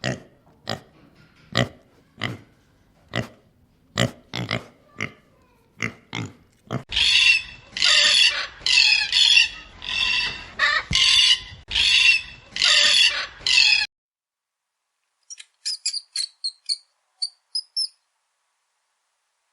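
An animal squealing in a run of about ten loud, shrill calls, each about half a second long, after a series of sharp knocks in the first several seconds; faint high chirps follow near the end.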